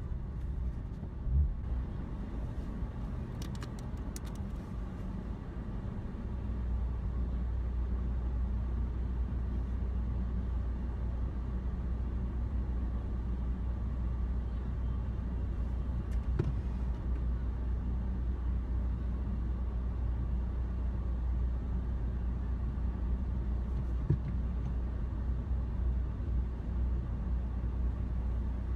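Low, steady rumble of a car's engine heard from inside its cabin, settling into an even idle as the car sits still, with a few faint clicks.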